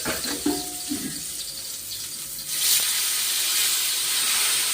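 Pieces of wet elephant yam sizzling in hot oil on a dosa tawa. A loud hiss starts suddenly about two and a half seconds in and carries on steadily.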